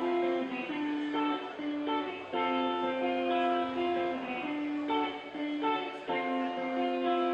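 Guitar playing the instrumental intro of a rock song live, strumming a repeating pattern of chords that change about every half second to second.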